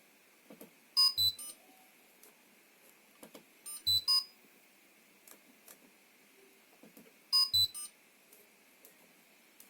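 Ariston washing machine electronic control board's buzzer beeping as it is switched into test mode: three quick clusters of short high beeps in two alternating pitches, about three seconds apart. Faint clicks come just before each cluster.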